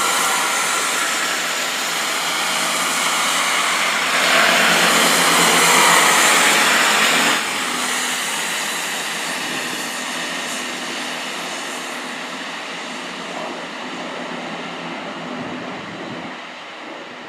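A train passing by, a loud rushing of wheels and engine that swells about four seconds in, drops off sharply a few seconds later and then fades away.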